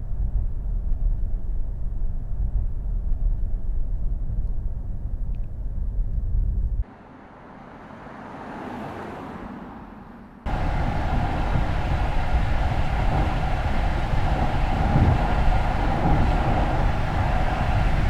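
Car on the move: steady road and tyre rumble, with an abrupt drop about seven seconds in to a quieter stretch that swells and fades, then an abrupt return of the rumble about ten seconds in.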